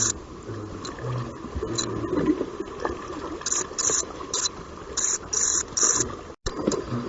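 Bats squeaking in short high-pitched bursts that come in clusters of about three, over a rustling background.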